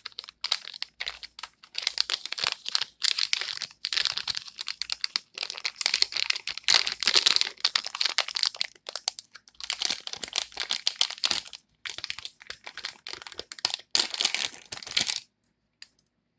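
Packaging of replacement laptop fans being opened by hand: crinkling and crackling in rapid, irregular runs, stopping about a second before the end.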